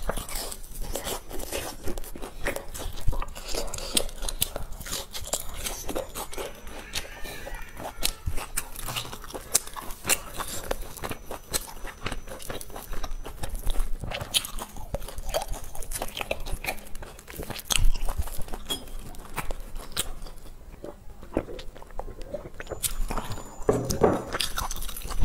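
Close-miked crunching and chewing of crisp, crumb-coated deep-fried cakes: a steady run of crackling bites, with a quieter stretch about three-quarters of the way through.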